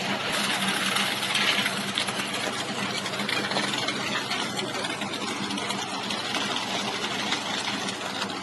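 A tractor engine driving a transit mixer runs steadily, with a dense mechanical clatter over a low steady hum. It grows louder within the first second.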